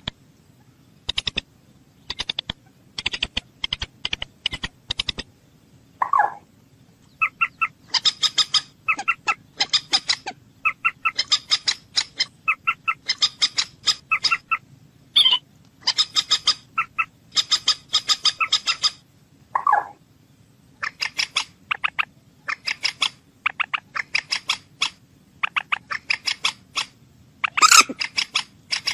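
A bird calling in quick series of short, sharp notes, sparse at first and then in dense runs, with a few longer, lower calls mixed in.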